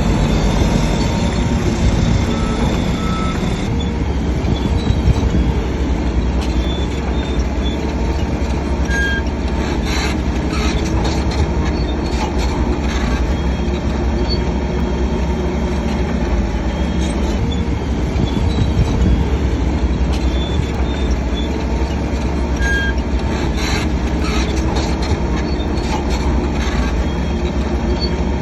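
Shantui DH7C3 crawler bulldozer working: its diesel engine running steadily, with short metallic squeaks and clanks from its steel tracks.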